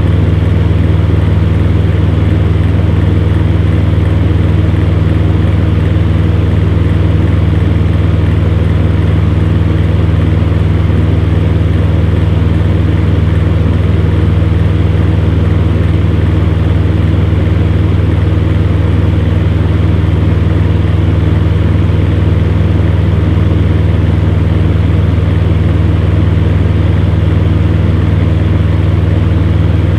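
Electric fan heater running steadily: a constant low motor hum with an even rush of blown air over it, unchanging throughout.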